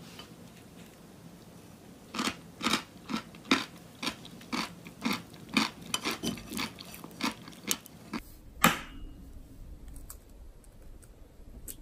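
Close-up crunchy chewing of cubed radish kimchi (kkakdugi) eaten with soft roasted sweet potato: a steady run of crisp crunches, nearly three a second, starting about two seconds in. Near the end the crunching stops and a single sharp knock sounds.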